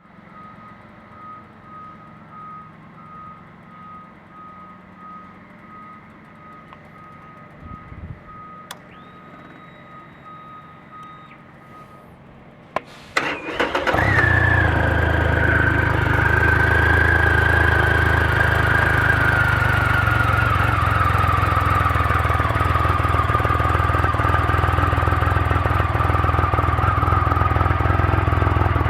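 2007 Triumph Rocket III Classic's 2.3-litre inline-three engine being started about thirteen seconds in. It catches with a few sharp clicks, then runs steadily and loudly with a whine that settles slightly lower in pitch. Before the start there is only a quiet background with a faint, evenly pulsing beep.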